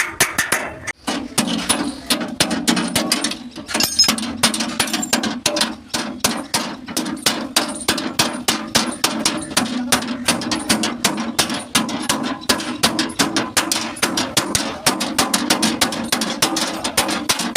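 Hand hammer beating out dents in a Tata truck cabin's steel panel: rapid, evenly paced metal strikes, about four a second, over a steady low hum.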